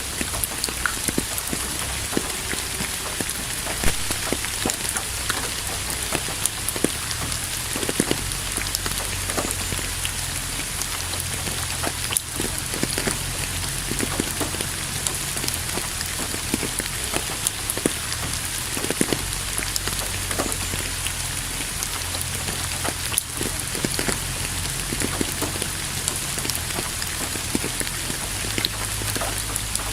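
Steady rain falling on a surface, with many separate drops striking close by.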